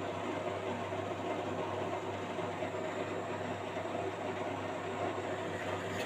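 Washing machine running, a steady low hum with an even rumble from the turning drum.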